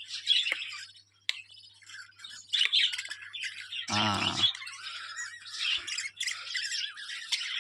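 Budgerigars chattering and chirping in their cage, many birds at once, with short squawks.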